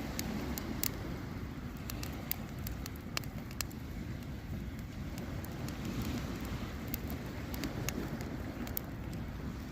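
Wood campfire crackling with irregular sharp pops, over a steady low rumble of wind.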